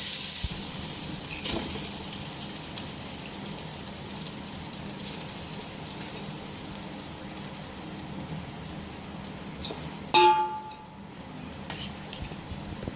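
Food sizzling in a hot pan of oil, loudest at the start and settling into a steady sizzle. About ten seconds in, a metal utensil strikes the pot once with a short ringing clank.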